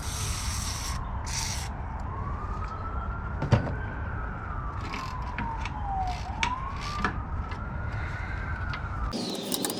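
An emergency vehicle's wailing siren in the background, its single tone slowly rising and falling, over a low rumble, with a few sharp metallic clicks. About nine seconds in, the sound changes abruptly to faster, higher sweeping tones and rapid clicking.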